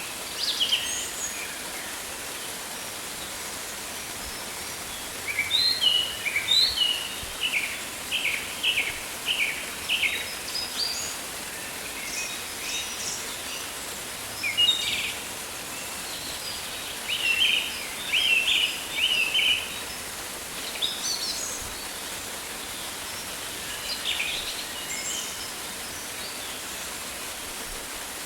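Rainforest ambience: birds chirping in quick runs of short calls, coming and going in clusters, over a steady background hiss.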